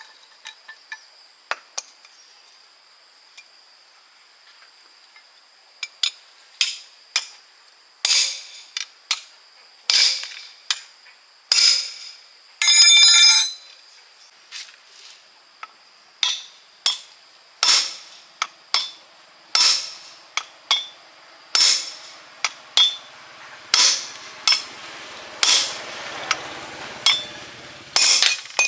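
Metal tools and parts of a truck gearbox clinking and knocking during a teardown: a series of sharp, ringing metal knocks, about one every second, with a short rattle about halfway through and a scraping stretch near the end.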